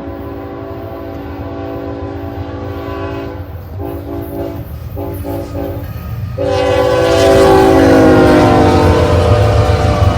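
Diesel locomotive's multi-chime air horn sounding a long blast, two shorter blasts, then a louder final long blast that drops in pitch as the locomotive passes, over the low rumble of the engine.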